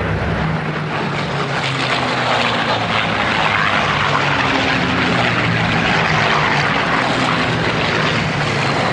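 Piston-engined propeller aircraft running in flight: a steady engine drone whose pitch shifts slightly, a little louder in the middle.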